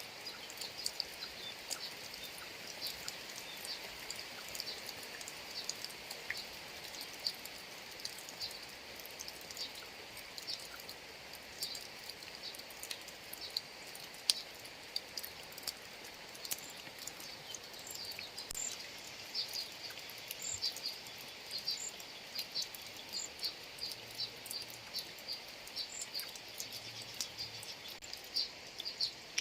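Steady light rain with scattered sharp drop ticks, one louder tick about halfway through. Over it, insects chirp in rapid repeated high pulses.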